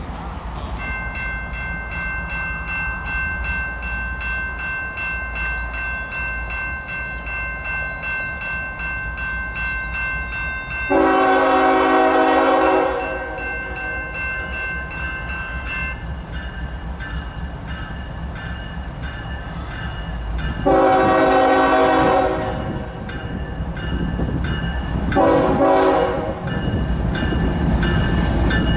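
Freight locomotive horn sounding two long blasts and a short one, the grade-crossing pattern. A bell rings rhythmically underneath, over the low rumble of the approaching train.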